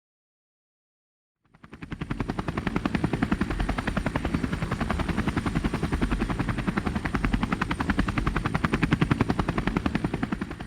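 Helicopter rotor blades beating in a fast, even rhythm, with a thin high steady whine over them; it starts about a second and a half in.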